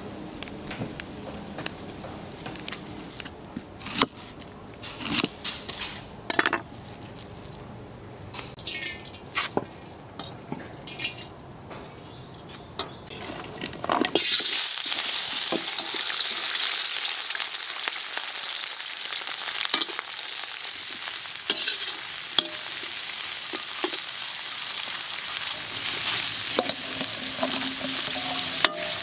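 Snaps and small clicks of holy basil leaves being picked off their stems, then about halfway through a sudden loud, steady sizzle as chopped galangal, shallot, lemongrass, garlic and kaffir lime leaf hit hot oil in a wok over a wood fire, and keep frying.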